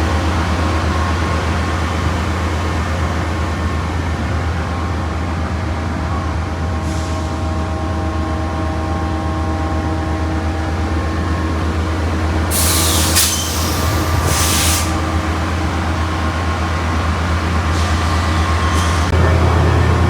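Factory production machinery running with a steady low hum and several held tones, broken by short hisses, the longest about two seconds long roughly two-thirds of the way through.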